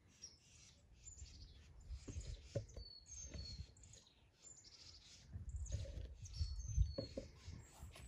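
Small birds chirping in short, high calls, faint in the background. Low thumps and rustling come in from about five seconds in.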